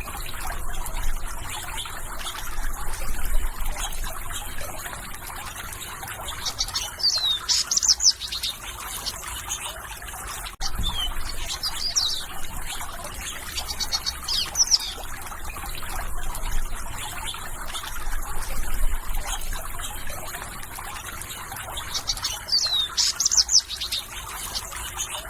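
Birds singing, with clusters of high, quickly falling chirp notes every few seconds over a steady background hiss.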